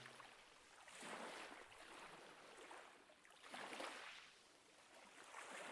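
Faint ocean waves washing in, rising and falling in slow swells, about three in a few seconds.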